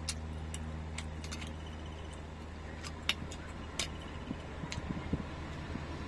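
Scattered light clicks and clinks of kitchen utensils, about a dozen, with some soft scraping near the end, over a steady low electrical hum.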